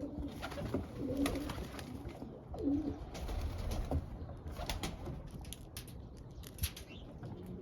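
A pigeon cooing in low, soft phrases, twice in the first three seconds, with scattered sharp clicks and taps over a low rumble.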